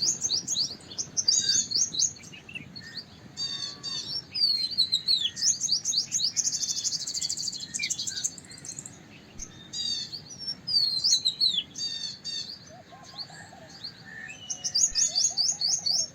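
White-browed wagtail singing: loud phrases of rapid, high, sweeping notes separated by short pauses, with a buzzy trill in the middle.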